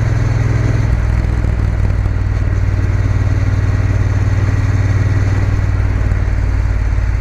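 Triumph Bonneville T120 parallel-twin engine running steadily under way, heard from the bike itself. The engine note drops slightly about a second in.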